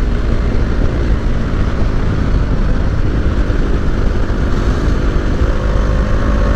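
Bajaj Dominar 250 motorcycle's single-cylinder engine running steadily while riding, a continuous engine and exhaust note with heavy low rumble.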